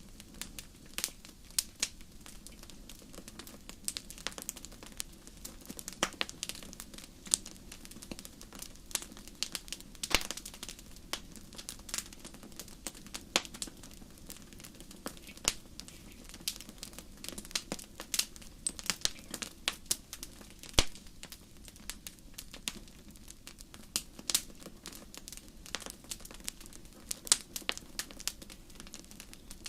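Wood fire burning in a fireplace, with irregular sharp crackles and pops over a low steady hum.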